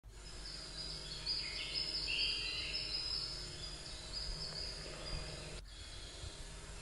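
Birds singing in short, repeated phrases over a steady low rumble of outdoor background noise, with a brief break about two-thirds of the way through.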